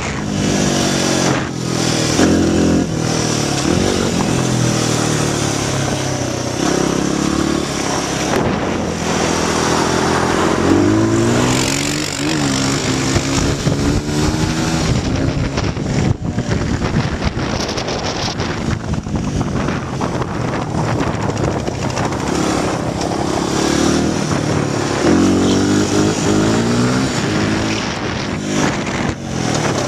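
Honda XR100 dirt bike's small single-cylinder four-stroke engine being ridden hard, its pitch climbing and dropping back again and again as the throttle opens and closes and the gears change.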